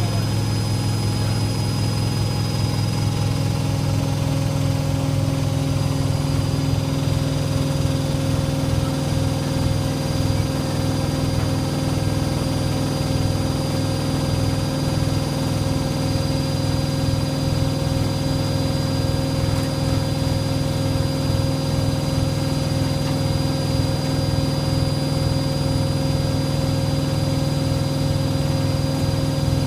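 Hoover Logic A3790 washing machine spinning at a steady high speed: an even motor and drum hum with a fast, regular low pulsing.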